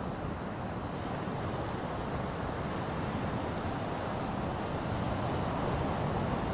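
Ocean waves: a steady rushing wash of surf that slowly swells louder.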